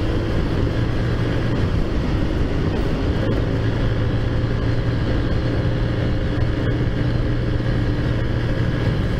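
Taotao Zummer 50cc four-stroke scooter engine, fitted with a big-bore kit and performance parts, running steadily while being ridden.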